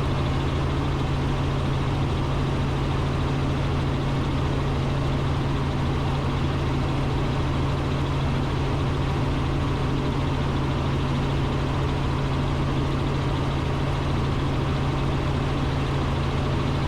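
Robinson R44 Raven II helicopter in cruise flight, heard from inside the cockpit: a steady, unchanging drone of engine and rotors with a strong low hum.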